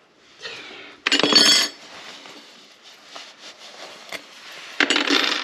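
Small metal hardware clinking and rattling as it is handled: a loud jingle of metal pieces a little past a second in, light clicks after it, and another clatter near the end.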